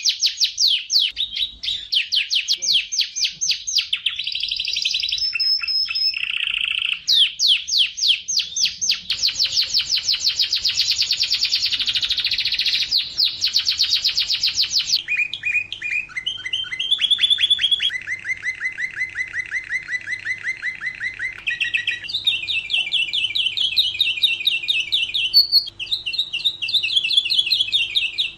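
Domestic canary singing a long song of fast rolling trills, each a rapid run of repeated notes that switches to a new pattern every few seconds. One passage about two-thirds of the way in is lower and slower.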